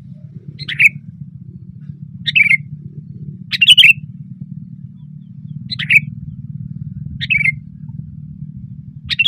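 Sooty-headed bulbul giving short, loud calls, six in all, about one every second and a half, over a steady low hum.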